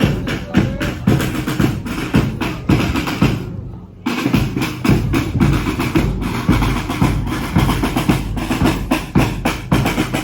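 Marching band drums, snare and bass drum, beating a steady quick rhythm, with a brief break about three and a half seconds in.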